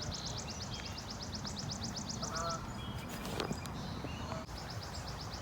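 A songbird's rapid, high, dry trill of about ten notes a second, lasting a few seconds and starting again near the end, with a short lower call from another bird about two seconds in, over a steady low background rumble.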